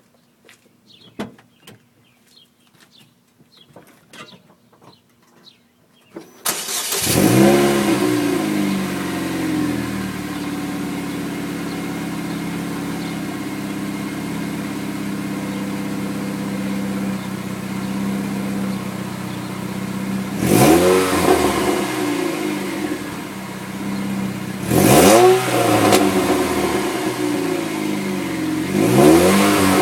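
Exhaust of a 2007 Chevrolet Cobalt SS Supercharged's 2.0 L supercharged four-cylinder, running through a ZZP high-flow catalytic converter. After a few seconds of faint ticks, the engine starts about six seconds in, flares up and settles into a steady idle. Later it is revved three times in short blips, each falling back to idle.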